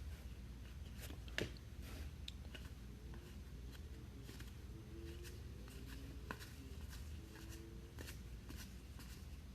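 Faint handling of trading cards: scattered light clicks and slides as cards are sorted, with a sharper tap about a second and a half in, over a low steady hum.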